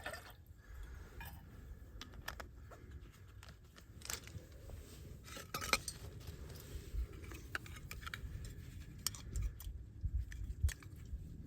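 Faint scattered clicks, taps and rustles of camping gear being handled, over a low steady rumble.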